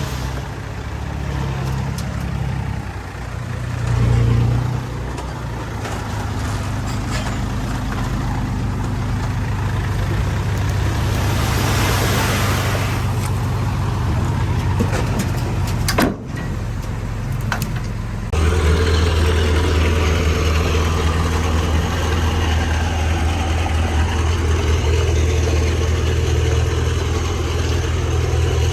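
Heavy diesel earthmoving machinery running, a bulldozer and dump truck working soil, with a deep engine note. About 18 seconds in the sound changes abruptly to a steadier, deeper engine hum.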